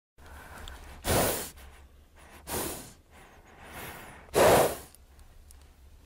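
Horse blowing air through its nostrils: three breathy snorts, the last the loudest, over a low steady rumble.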